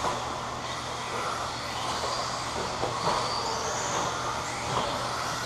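RC stadium trucks running on a race track: a steady hiss with a high motor whine that rises and falls, and a few small clicks.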